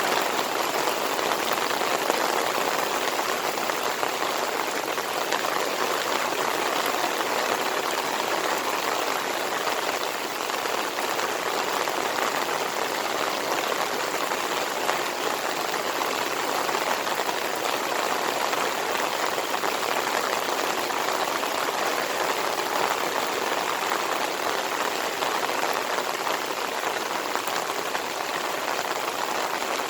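Steady pouring monsoon rain: a dense, even hiss of countless drops that does not change.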